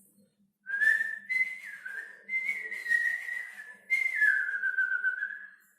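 A person whistling a bird call, standing in for a bird chirping in distress: three long, wavering whistles, the last one sliding down in pitch.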